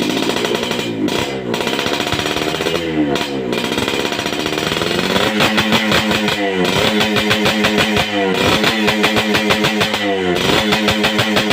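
Yamaha RX-King's 135 cc two-stroke single cylinder revving through a Soelis underslung aftermarket exhaust. It opens with a few quick throttle blips rising and falling, then is held at high revs from about halfway, dipping briefly a few times.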